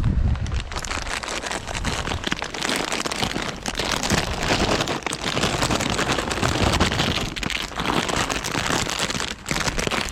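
Plastic food bag rustling and crinkling close to the microphone, a dense crackling rustle that keeps going, dipping briefly about nine seconds in.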